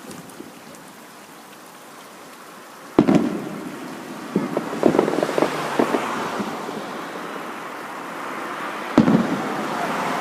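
Fireworks display: a sharp bang about three seconds in, a run of smaller crackling pops, then another bang near the end followed by a crackling hiss.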